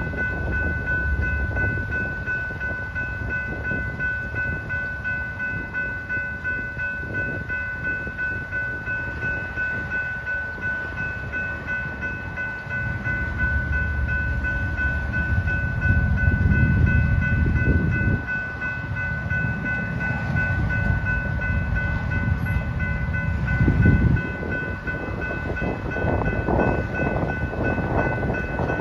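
BNSF freight train's tank cars crawling past: a steady low rumble of wheels on rail that grows louder about halfway through, with a steady high tone ringing over it.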